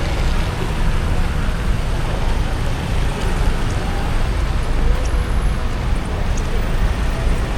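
Steady road noise of a car driving on rain-wet streets: a constant low rumble with an even hiss of tyres on wet pavement.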